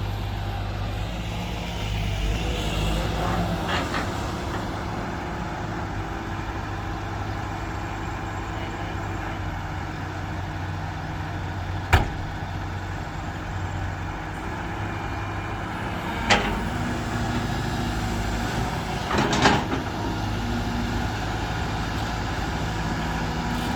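Heavy diesel engines of an excavator digging a pond and of dump trucks running steadily, with a few sharp knocks partway through.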